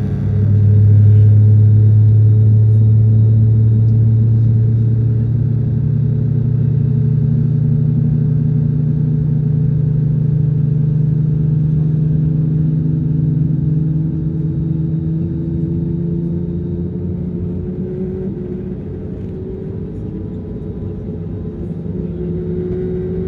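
Airliner engines running at takeoff power: a loud low drone that surges about half a second in, then slowly rises in pitch and eases off over the following twenty seconds.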